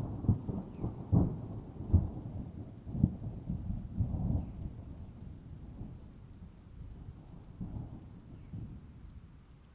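Thunder rumbling in rain, with several sharp cracks in the first few seconds. The rumble then dies away gradually and is faint near the end.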